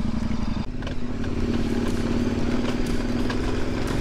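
KTM motorcycle engine running under way on a dirt road. Its note breaks briefly about half a second in, then holds steady.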